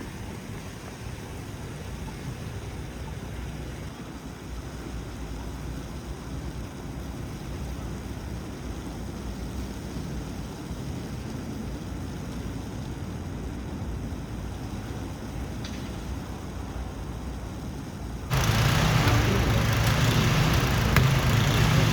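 Low, steady rumble of city traffic and street ambience. About eighteen seconds in it suddenly becomes much louder and fuller, with a stronger low engine-like hum.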